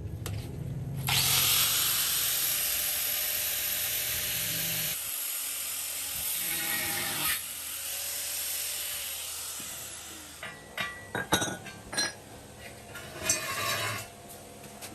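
A workshop tool running with a steady hiss for several seconds and then fading out, followed by a handful of sharp clinks and knocks.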